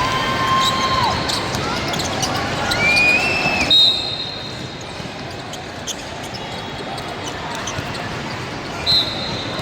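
Youth basketball game in a gym: sneakers squeaking on the court and the ball bouncing, with two short loud whistle-like blasts, about four seconds in and again near the end.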